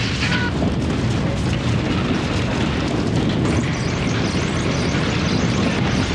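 Continuous low rumbling with crashing and clatter mixed in: a TV-drama earthquake sound effect.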